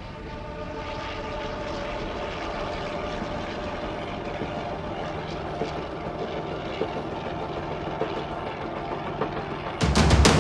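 Propeller aircraft engine running, growing louder over the first couple of seconds and then holding steady. Loud music cuts in abruptly near the end.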